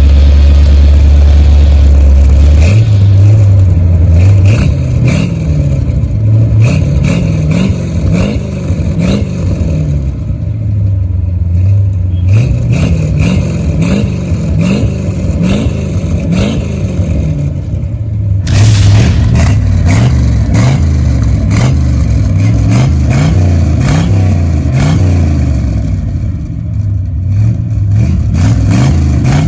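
1973 Corvette Stingray's V8 blipped over and over through a custom dual exhaust with Flowmaster 40 Series mufflers. It idles steadily for the first few seconds, then revs up and drops back repeatedly, with crackles through the exhaust.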